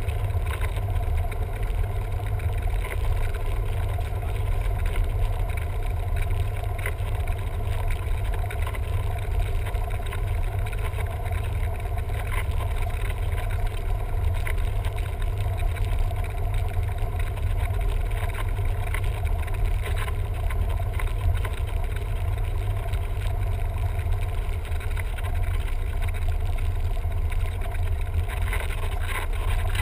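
Cessna 172M's four-cylinder Lycoming engine and propeller running steadily, a constant deep drone with no change in power.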